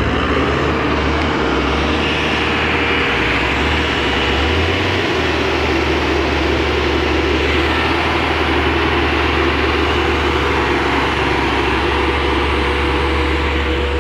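Heavy engines of a tractor towing a truck, running steadily under load: a constant low hum with a steady mid-pitched tone over it.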